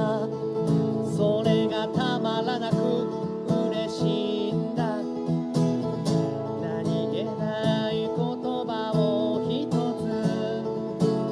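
Acoustic guitar music: guitar chords with a wavering melody line over them.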